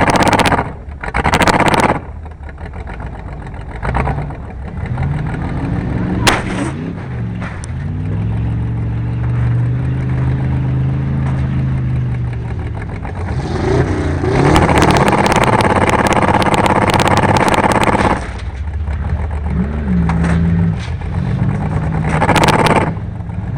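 Race car engines revving during a junk car race, the pitch climbing and falling, with a loud, harsh stretch of full-throttle noise in the middle.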